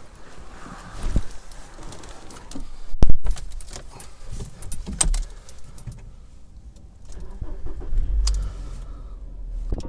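Handling noises: irregular clicks and knocks with a jangling, a loud knock about three seconds in, and a low rumble near the end.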